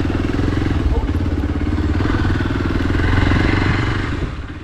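Single-cylinder engine of a Hero Xpulse 200 motorcycle running steadily under way, a fast even pulsing, fading out near the end.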